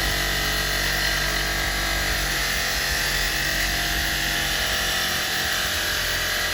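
Powered wire brush wheel running steadily, with a steel box spanner held against it: a continuous scratching whir as the wire wheel scrubs rust off the tube.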